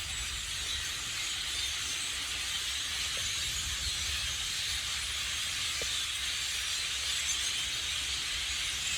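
A huge flock of blackbirds calling all at once from the trees, blending into a dense, steady chatter in which no single call stands out.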